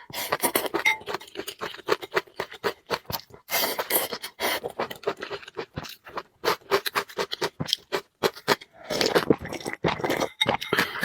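Close-miked eating: rapid, irregular wet clicks of chewing noodles, with two longer slurps, one about three and a half seconds in and one near the end.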